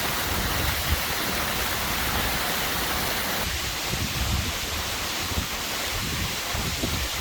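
Waterfall: a steady rush of falling water, with an uneven low rumble of wind on the microphone underneath. The rush changes tone about halfway through.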